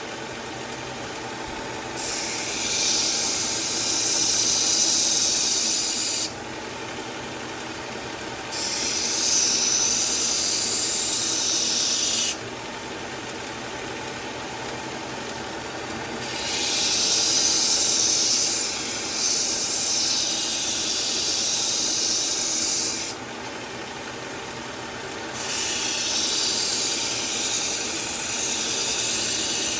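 A powered knife sharpener's motor running steadily, with a knife blade drawn across the abrasive in several long grinding passes of a few seconds each that start and stop sharply. The passes are sharpening a dull blade's edge.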